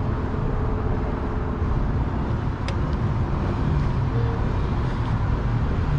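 Steady low rumble of vehicle and road noise, with one sharp click a little before the middle.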